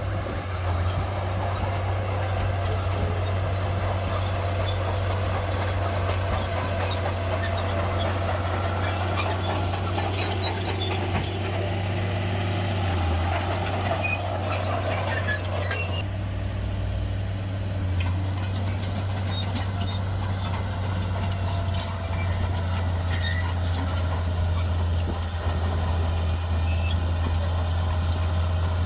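Heavy diesel earthmoving machinery running steadily with a deep, constant engine drone, overlaid with scattered clanks and clicks. The higher clatter thins out suddenly about halfway through.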